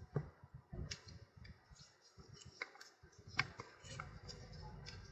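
Irregular small clicks and taps of plastic and metal parts being handled and fitted together, with a low rumble of handling noise between them. The parts are the gear actuator's plastic gear and shaft, being lined up mark to mark.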